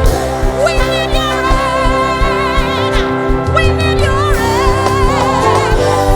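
Live gospel worship music: the band holds sustained chords over a steady low beat while a singer's voice wavers on long notes.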